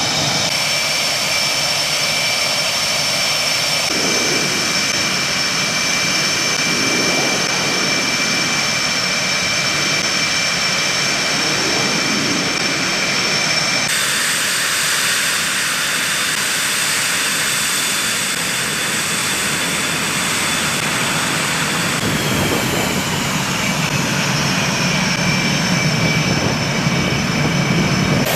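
F/A-18 fighter jet engines running with a steady high whine over a rushing noise. The sound changes abruptly about 4 and 14 seconds in, and the whine falls slightly in pitch later on.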